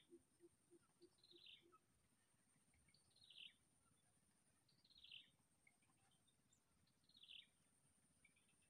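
A bird calling faintly: a short falling chirp repeated about every two seconds, five times, over a steady thin high-pitched whine.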